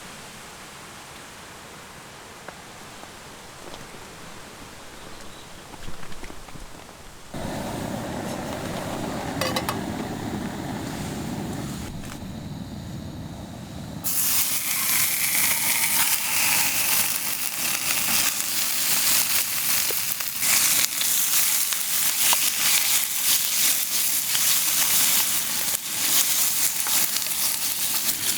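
Food sizzling and frying in a hot pan, starting abruptly about halfway through and running on as a loud, dense crackling hiss. Before it, a steady low rushing sound lasts several seconds.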